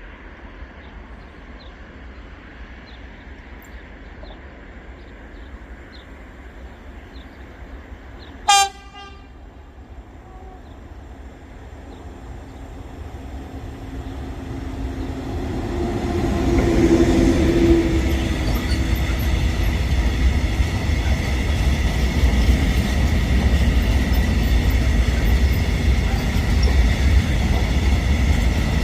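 A train sounds one short, high horn blast, then approaches and passes close by, its rumble building over the second half and staying loud to the end.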